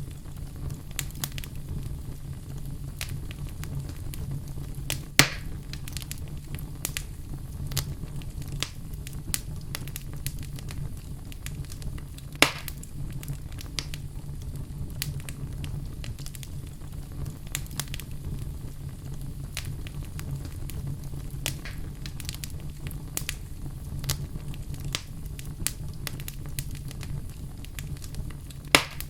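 Fire burning in a fireplace: a steady low rumble of flames with frequent small crackles, and louder pops about five seconds in, about twelve seconds in, and near the end.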